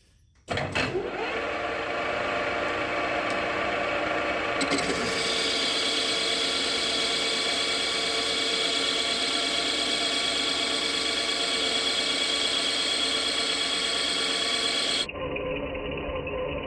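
JFMT metal lathe starting up about half a second in, its spindle and gearing rising in pitch to a steady run. From about five seconds in, the tool is cutting a 3 mm-deep roughing pass on the stud under power feed, adding a steady hiss and a high whine. Near the end the sound changes suddenly.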